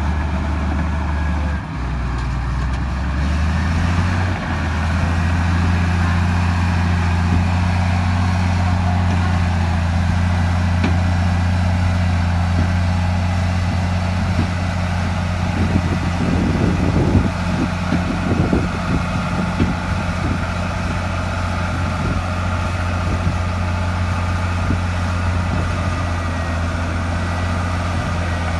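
Diesel engine of heavy earthmoving machinery running steadily, its note stepping up a few seconds in. A stretch of knocks and clatter comes about halfway through.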